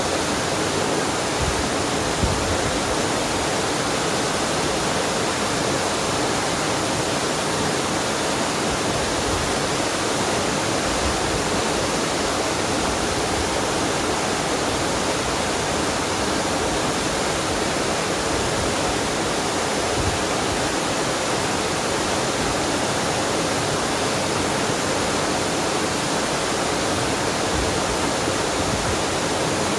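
Waterfall and mountain stream water rushing, a steady, unbroken hiss.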